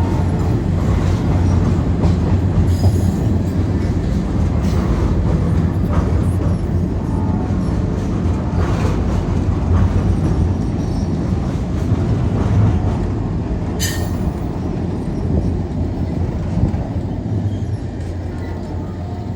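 Train running past with a steady heavy rumble and faint wheel squeals, with a brief sharp high-pitched squeal about 14 seconds in. It eases off slightly near the end.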